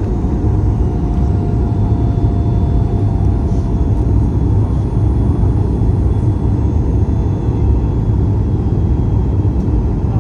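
Boeing 737 MAX 8 airliner noise heard from inside the passenger cabin: a steady low rumble with a faint constant tone above it.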